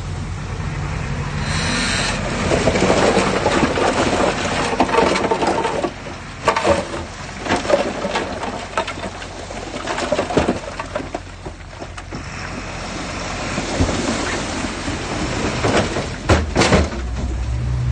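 Loose earth and rocks rushing and clattering, with many sharp knocks. A heavy diesel engine drones underneath at the start and again near the end.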